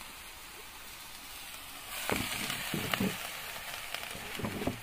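Chopped colocasia leaves sizzling in a steel wok, with a steel ladle stirring and scraping against the pan from about two seconds in, in a series of irregular knocks.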